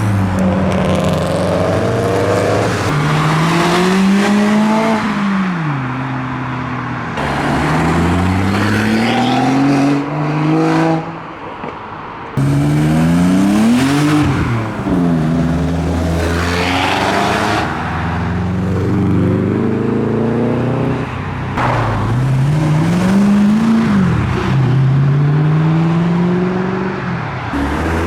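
Modified cars' engines revving and accelerating away one after another, pitch climbing and dropping repeatedly as they change gear. There is a brief quieter moment about eleven seconds in.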